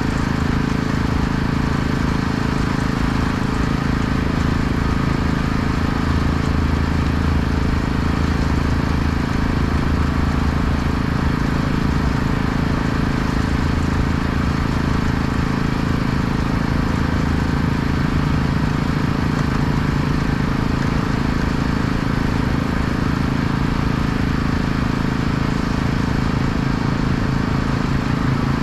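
An engine running steadily with an even low drone and a constant hiss over it, unchanged throughout.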